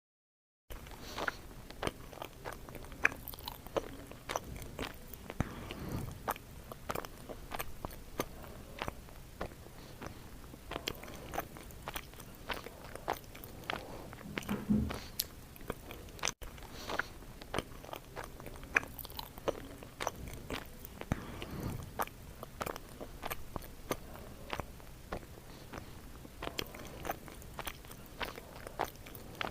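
Close-miked mouth sounds of eating: steady chewing and biting with many crisp, irregular clicks and smacks. It starts after a brief moment of dead silence, and a few short low sounds stand out, the clearest about halfway through.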